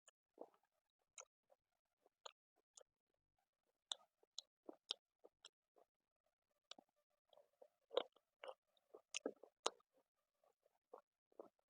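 Faint, close-up mouth sounds of a person chewing chicken curry with rice: irregular wet smacks and clicks, a little louder and busier about two-thirds of the way through.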